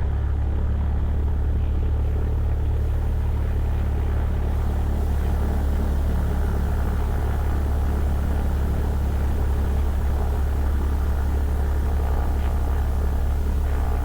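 Cessna 172's piston engine idling after its run-up: a steady low drone with no change in speed.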